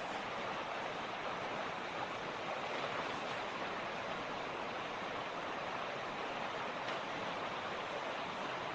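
Mountain creek rushing steadily, an even continuous wash of flowing water.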